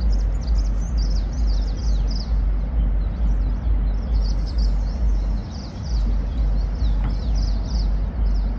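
Small birds chirping rapidly and repeatedly over a steady hiss and a gusting low rumble of wind on the microphone.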